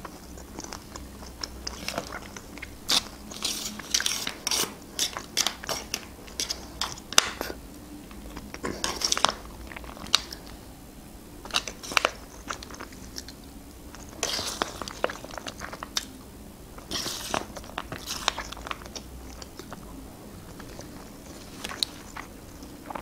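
Close-miked chewing and biting of grilled meat, with moist mouth clicks and crackles coming in irregular clusters separated by quieter pauses.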